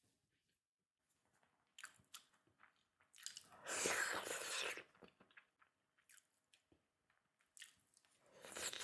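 Close-miked chewing of food: scattered soft, wet mouth clicks, with a louder noisy stretch of chewing and biting from about three to five seconds in, and another short one near the end.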